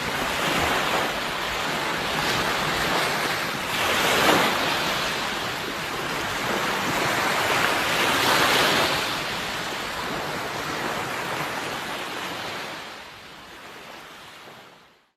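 Sea waves breaking and washing on the shore, a steady rushing surf that swells twice, about four and eight seconds in, then fades away near the end.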